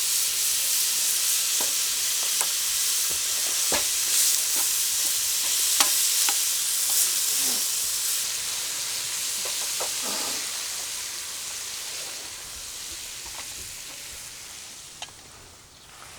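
Food frying in a hot pan: a steady high sizzle with scattered pops and crackles. It dies down gradually over the second half until it is faint near the end.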